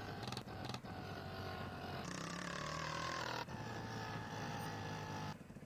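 Honda CG 160 Titan's single-cylinder engine running at low road speed, its note shifting with the throttle a few times and dropping to a quieter level near the end.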